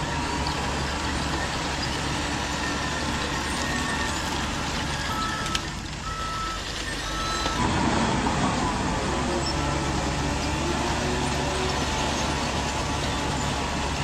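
Radio-controlled construction trucks and dozer running, a steady mechanical hum with engine-like tones, and a few short beeps in the middle. The sound changes abruptly a little past halfway.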